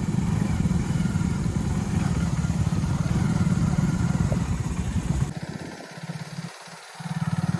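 Motorcycle engine running steadily under way. About five seconds in the sound drops away abruptly, then comes back just before the end.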